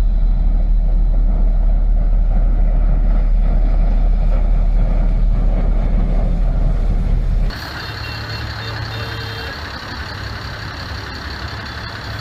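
Heavy machinery sound in two parts: a loud, deep rumble for about seven and a half seconds, then an abrupt cut to quieter vehicle noise with a high-pitched reversing beeper sounding.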